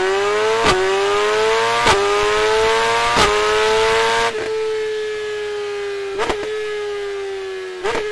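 Superbike four-cylinder engine with an Akrapovič exhaust pulling hard at high revs, its note climbing in pitch with short sharp breaks about every second and a quarter as it shifts up. In the second half the note holds and eases slightly, with two more brief breaks.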